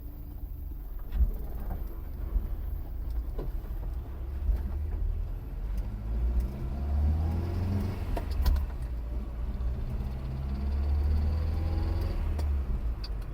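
Nissan 1400 bakkie's petrol engine running as the vehicle pulls away, heard from inside the cab: a low rumble whose pitch rises with acceleration, with a few sharp clicks and knocks from the cab.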